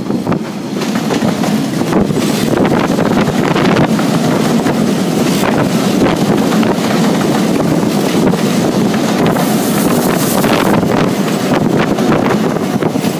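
Steady rumble of a passing electric suburban train, a Wellington Matangi unit, its wheels rolling on the rails. Wind buffets the microphone throughout.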